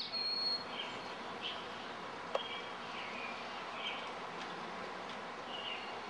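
Small birds chirping in the background: short high chirps, about one or two a second, over a steady outdoor hiss, with a single sharp click a little past two seconds in.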